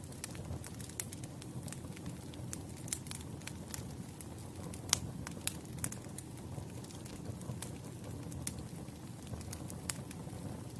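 Wood campfire burning, with a steady low flutter of flames and irregular sharp crackles and pops of burning logs; the loudest pop comes about halfway through.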